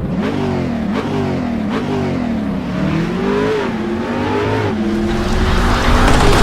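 Dodge Charger's Hemi V8 revving again and again, its pitch climbing and dropping about once a second. It then holds a steadier, louder note near the end.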